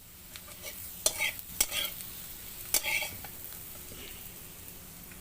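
Food sizzling in hot oil in a kadai while a metal spatula stirs and scrapes it, with several sharp clinks of the spatula against the pan.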